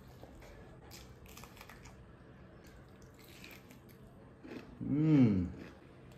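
A person chewing and crunching a mouthful of rice, smoked pork and bamboo shoot with faint wet clicks, then one loud hummed "mmm" about five seconds in that rises and falls in pitch.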